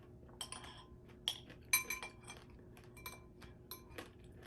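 A spoon clinking against a bowl of fruit and iced coconut water: about seven or eight short taps, some ringing briefly, the loudest about two seconds in.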